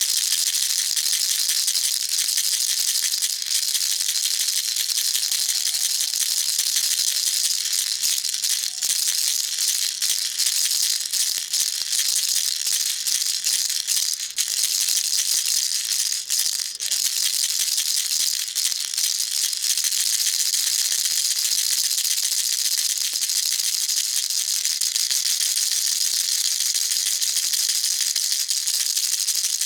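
Baby rattle shaken without a break, giving a dense, even, high-pitched rattle, with a couple of brief dips near the middle.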